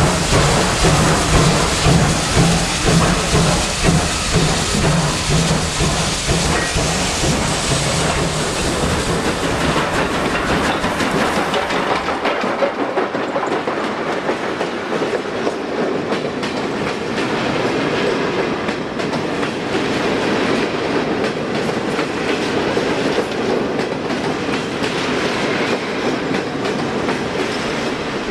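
Steam train passing. For the first ten seconds or so there is a heavy, pulsing low rumble; then the bass drops away and the wagons roll by with a steady rail clatter.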